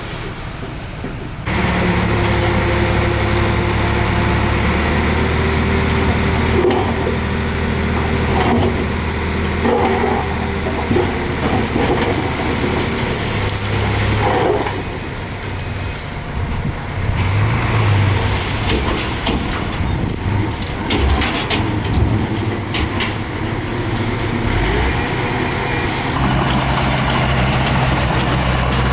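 Heavy diesel engine of earthmoving machinery running under changing load, its pitch shifting as it works. It gets louder about a second and a half in, and short metallic knocks and clanks come through in the second half.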